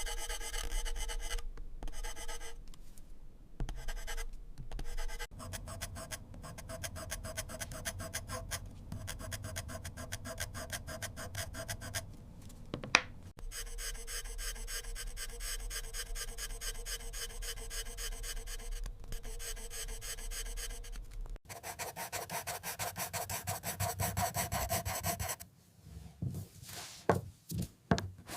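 Drawing strokes on paper: fast back-and-forth shading scratches and rubs, with short pauses between runs of strokes.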